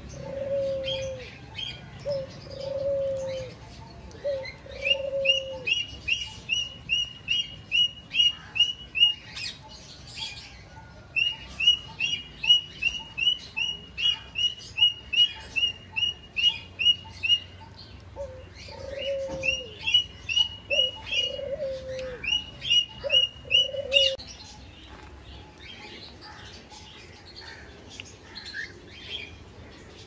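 Birds calling: a sharp chirp repeated about twice a second, with a short break near the middle. Runs of low cooing notes come in the first few seconds and again about two-thirds of the way in. The calling stops about four-fifths of the way through, leaving only faint scattered clicks.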